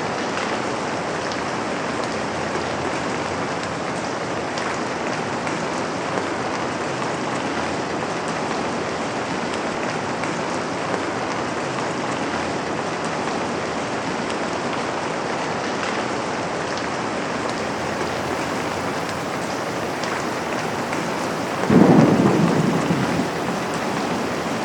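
Steady rain falling on a window, with a thunderclap near the end that breaks in suddenly and rumbles away over about two seconds.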